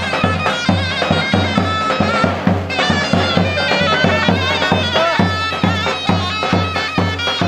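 Traditional Turkish folk dance music: a shrill reed melody, like a zurna, wavering over a steady, even drum beat.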